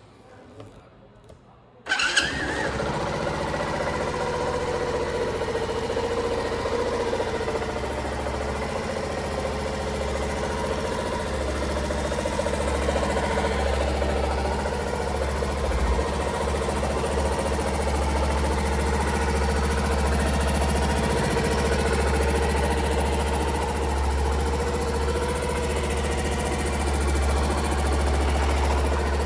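Honda Little Cub's 49 cc four-stroke single-cylinder engine starting about two seconds in, catching at once and settling into a steady idle.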